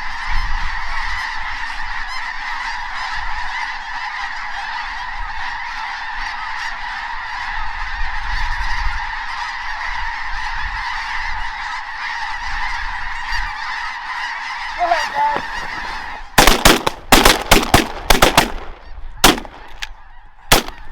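A large flock of snow geese calling in a dense, continuous clamour of high honks. About sixteen seconds in, a rapid volley of shotgun blasts from several guns breaks out, about eight shots in two seconds, then two more spaced out near the end.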